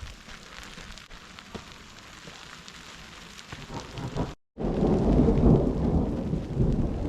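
Steady rain with the patter of drops. After a sudden cut about four seconds in, a much louder, deep rumble of thunder sounds over the rain.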